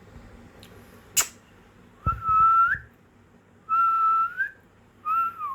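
Pet parakeet whistling three long, steady notes, each bending upward at the end, with a single sharp click about a second in.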